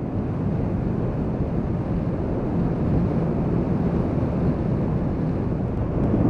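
Steady wind rush on the helmet microphone while riding a 2013 Honda CB500X, its parallel-twin engine running evenly at cruising speed beneath the wind.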